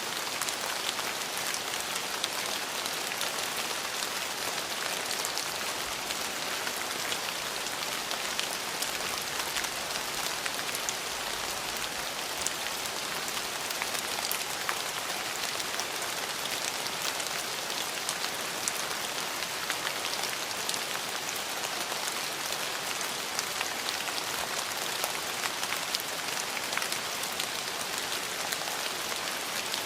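Steady rain falling, a continuous hiss of rain with many small drop ticks scattered throughout.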